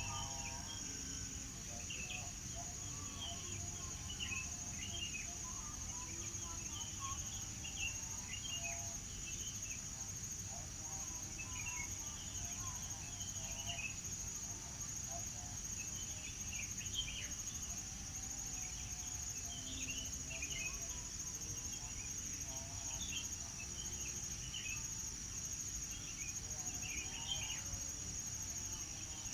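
Birds chirping and calling in short scattered phrases over a steady, unbroken high-pitched insect trill, with a low background rumble.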